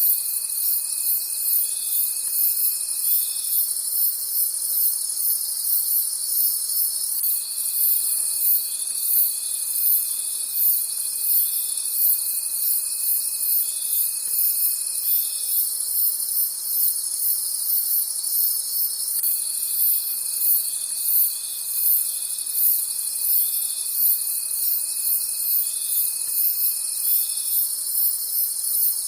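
Crickets chirping in a night chorus. A high chirping pulses about twice a second over steady high trills, and a lower steady trill keeps stopping for a few seconds and starting again.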